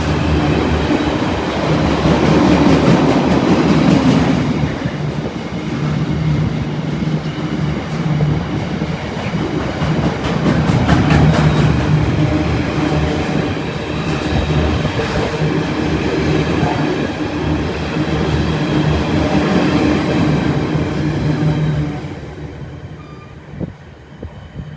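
Locomotive-hauled train running through the station, a steady low hum over wheel and rail rumble, fading away in the last few seconds.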